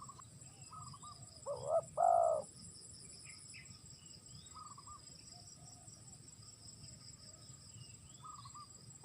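Spotted dove cooing: a few soft short coos, then one loud two-part coo about two seconds in. Crickets or other insects trill steadily in the background.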